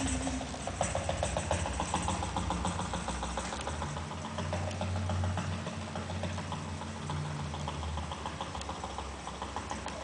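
A machine running steadily: a low hum under a fast, even ticking.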